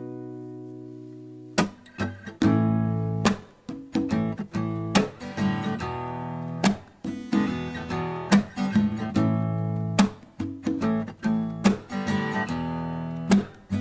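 Song intro on acoustic guitar. A held chord rings and fades, then rhythmic strumming starts about one and a half seconds in.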